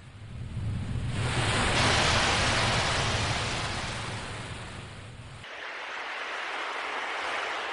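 Ocean waves washing in: one wave swells over about a second, peaks and slowly eases off, then a second, softer wave rises near the end.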